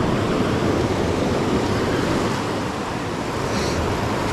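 Mountain creek running high, a steady rush of water.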